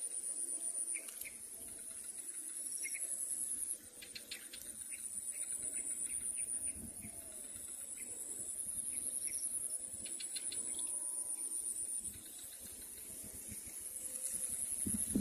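Insects trilling in a high, steady, pulsing chorus that swells over a few seconds at a time and drops off abruptly, with a few faint bird chirps.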